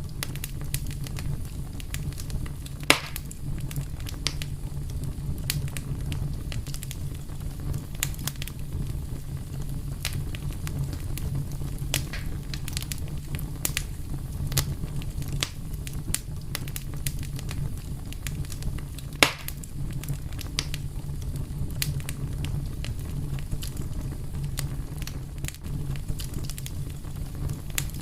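Fire crackling: a steady low rumble under frequent small pops, with two louder snaps, about three seconds in and about two-thirds of the way through.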